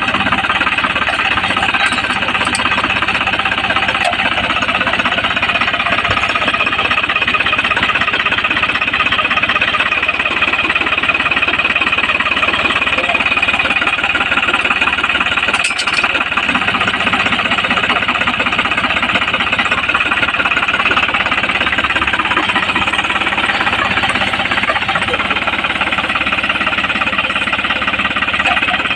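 Tractor-mounted post driver hammering rapidly and without letup, with the tractor's engine running underneath.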